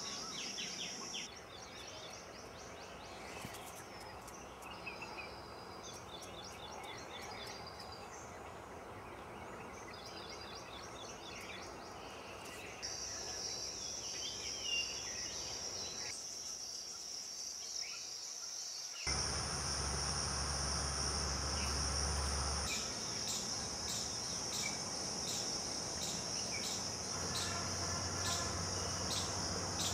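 Steady high-pitched trilling of insects, with short bird chirps and calls scattered over it. The background changes abruptly a few times, and a low rumble comes in for a few seconds about two-thirds of the way through.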